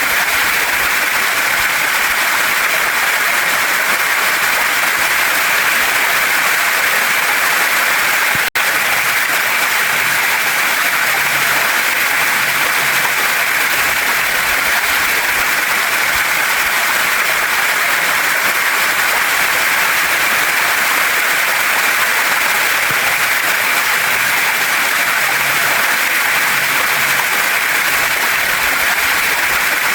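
Waterfall and mountain stream running steadily over rocks: a loud, even hiss of water, broken once by a split-second gap about eight and a half seconds in.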